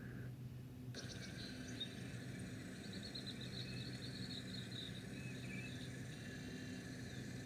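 Wetland birdsong: a quick run of high chirping notes lasting about two seconds, over a steady low hum and a constant thin high buzz.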